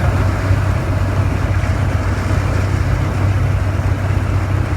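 Motorboat engine running at a steady low hum, with wind and water rushing past.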